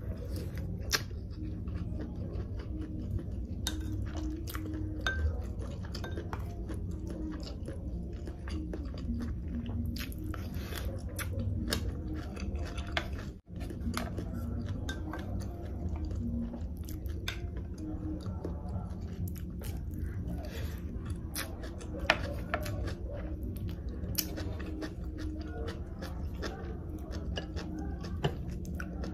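Close-mic chewing and mouth sounds of a meal of sea grapes and sea snails, with sharp clicks of a plastic spoon and dishes, over a steady low background hum. The sound cuts out briefly about halfway through.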